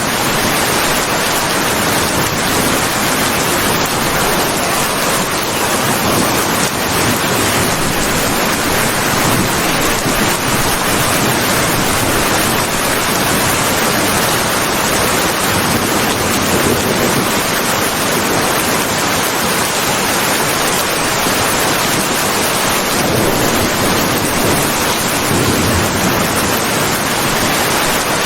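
Rain pouring steadily, a dense, even hiss.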